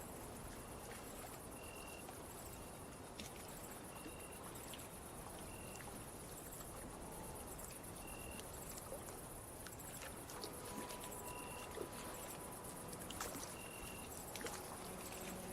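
Faint night ambience of crickets trilling steadily, with short chirps repeating every second or two, over a soft haze of lapping water.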